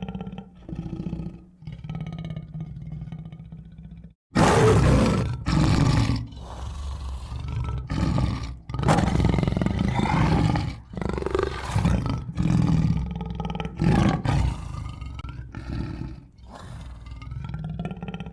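Tiger growling and roaring: lower growls for the first four seconds, a brief break, then a series of loud roars one after another.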